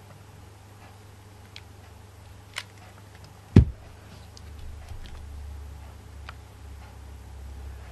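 Light clicks and taps of small objects handled on a tabletop, with one heavy thump about three and a half seconds in, followed by a low rumble.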